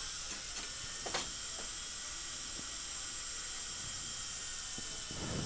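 Steady hiss with a faint high whine from a high-speed dental drill and its water spray, cutting through a stuck implant abutment; a faint click about a second in.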